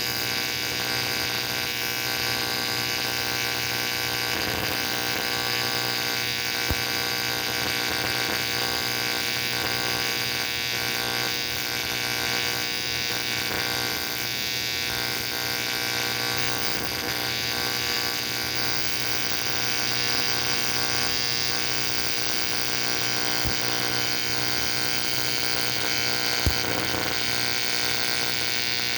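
Welding arc on an aluminum AFR cylinder head, a steady unbroken buzz with hiss, with a small click about a quarter of the way in and another near the end.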